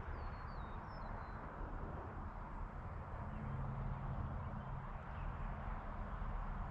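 Rural outdoor ambience at dusk: a steady rushing background noise, with a few short high bird chirps about a second in and a faint low hum from about halfway through.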